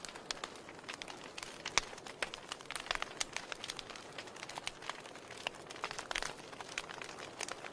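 Wood fire burning in a fireplace, crackling with irregular snaps and pops over a soft steady hiss; the sharpest pop comes about two seconds in.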